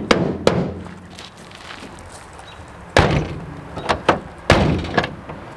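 1951 Kaiser Special's car door being shut several times, sharp slams as it is pushed closed on its latch while the door latch is tested for catching on its second position.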